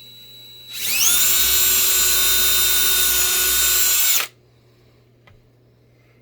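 Electric drill drilling a hole: a faint whine, then it speeds up to a steady high-pitched run for about three seconds and stops suddenly.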